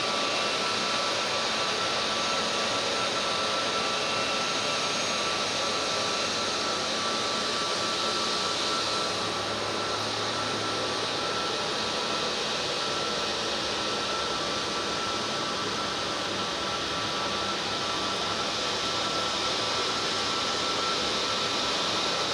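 Airliner jet engines running steadily: a constant rush of noise with a faint high, steady whine.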